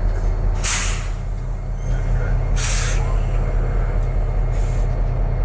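Train cars rolling slowly past with a steady low rumble, broken by two sharp hisses of air about two seconds apart and a fainter third near the end, typical of air brakes releasing.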